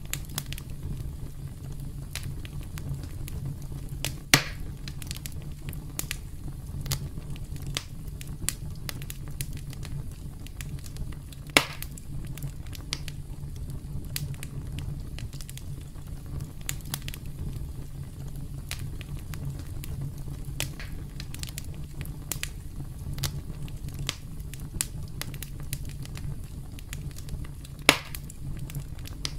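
Wood campfire crackling with dense small snaps over a steady low rumble, and three sharp, loud pops: about four seconds in, near the middle and near the end.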